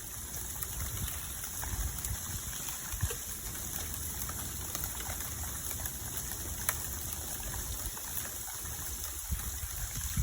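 Freezing rain falling steadily: a soft, even wash of noise with a few faint scattered ticks.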